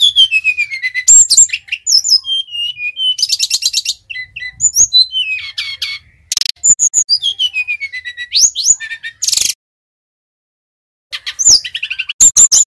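Sikatan rimba dada coklat (SRDC) singing loudly: phrases of rapid, rattling trills alternating with clear whistles that slide downward in pitch, with a pause of about a second and a half near the end before the song starts again.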